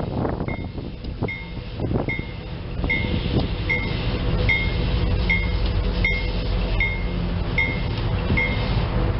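A bell dings evenly about once every 0.8 seconds over the steady low rumble of a moving train, stopping shortly before the end.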